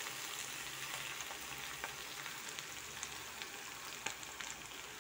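Sliced potatoes and brinjal frying in a pan: a steady sizzle with scattered small crackles.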